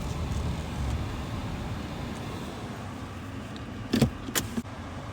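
Car running slowly into a parking spot and idling, heard from inside the cabin as a steady low rumble that eases off. Two short, sharp clacks come about four seconds in.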